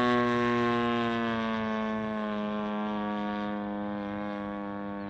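EME60 60cc single-cylinder two-stroke gas engine of a giant-scale RC warbird, driving a three-blade 22x10 propeller in flight at full power. Its steady drone slowly sinks in pitch and fades.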